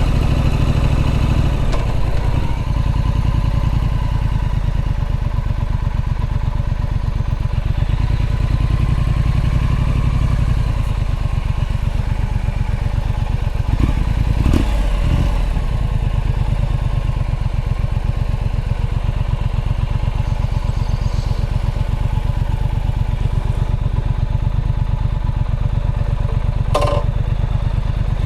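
Triumph Street Scrambler's 900 cc parallel-twin engine running as the bike is ridden along at steady road speed. The engine note shifts a few times with the throttle, and there is a short sharp click near the end.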